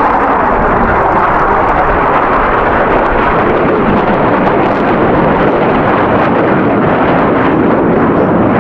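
Loud, steady jet aircraft engine noise from a low pass at an air show, without a break.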